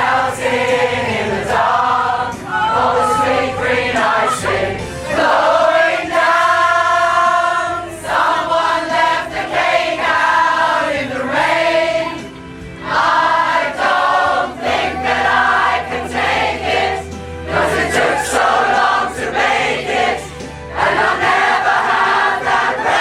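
A pop choir singing a song over a musical accompaniment, with some long held notes.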